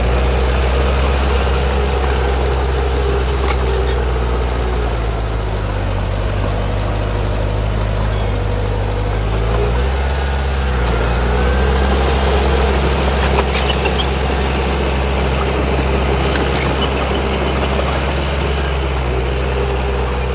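Heavy diesel engine of earthmoving machinery running steadily. Its speed drops about five seconds in, dips briefly near the middle, then picks up again.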